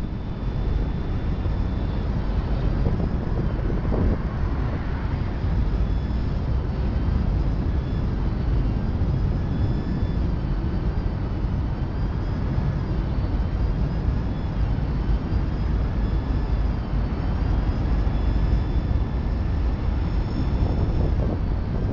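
Steady low rumble of a slow freight train rolling on the rails, heard from the rear platform of its caboose, with a faint, high, wavering squeal above it.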